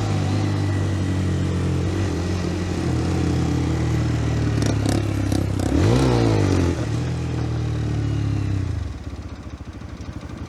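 125 cc single-cylinder motorcycle engine running under way at a steady pitch, with a few sharp clicks about five seconds in and a brief rise and fall in pitch about six seconds in. Near the end the engine drops off and goes quieter.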